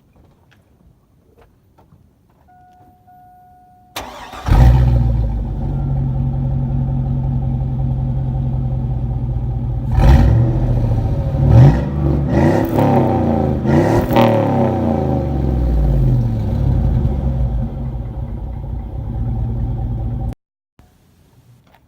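Chevy Tahoe V8 started through a new Cherry Bomb Extreme single-baffle chamber muffler and 4-inch tailpipe, sounding pretty mean. A steady warning tone sounds just before it cranks, and the engine catches about four seconds in with a loud flare. It then idles, is blipped several times in the middle, settles back to idle and is switched off abruptly near the end.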